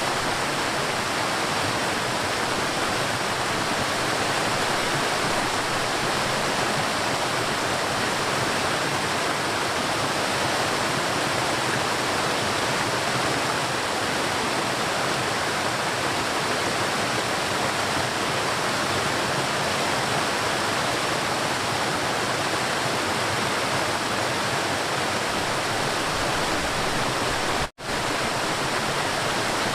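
River water rushing in a steady, dense flow. The sound cuts out for an instant near the end, then resumes.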